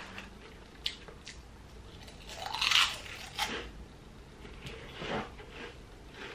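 A person chewing food close to the microphone, with soft mouth clicks and crunches and a louder stretch of chewing about two and a half seconds in.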